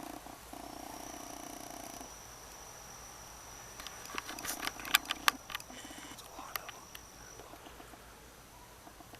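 Low, drawn-out animal calls, once about half a second in and again around four seconds, which the people recording take for coyotes. A thin high steady tone runs under them, and a cluster of sharp cracks comes around the middle, the loudest about five seconds in.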